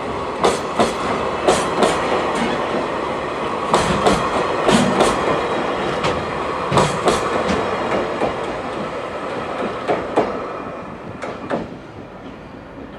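Freight train's container wagons rolling past, their wheels clacking irregularly over rail joints over a steady rumble, fading away near the end.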